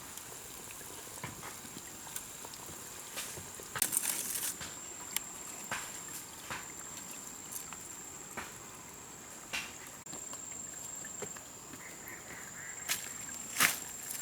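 Forest ambience: a steady high-pitched whine, typical of rainforest insects, under scattered snaps, clicks and rustles of leaves and twigs.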